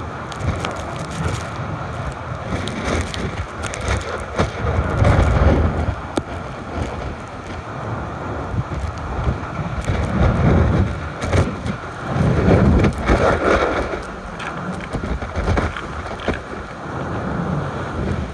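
Gusty wind rumbling on the microphone in surges, with scattered crackles.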